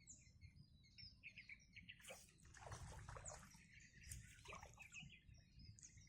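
Faint chirping of small birds, many short quick calls, with a run of short scratchy noises from about two seconds in.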